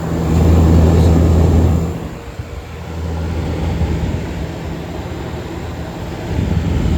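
Vintage window air conditioner starting up: a loud, steady hum comes on at once, strongest for about the first two seconds, then settles into a slightly quieter steady running hum.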